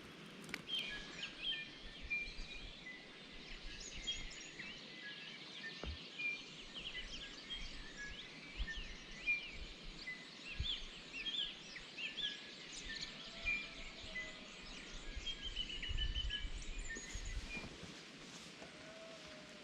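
Several birds chirping and whistling at once, many short overlapping calls with no break.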